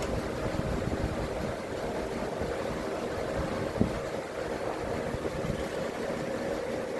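Steady hum of a running motor with a few even tones, and one short knock a little under four seconds in.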